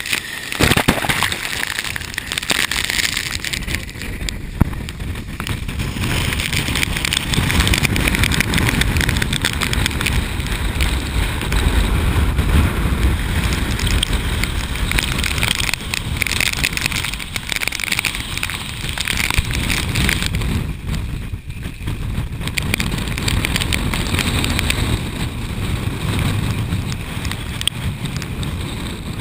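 Tropical-storm wind buffeting the microphone: a loud, steady rumble and hiss that rises and falls in gusts.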